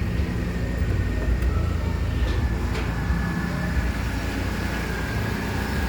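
Mercedes-Benz A160 (W168) idling: a steady low engine hum with a faint, thin, high whine held over it.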